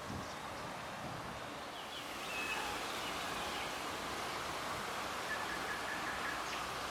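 Steady outdoor background hiss with a few faint bird chirps; the hiss grows slightly louder about two seconds in.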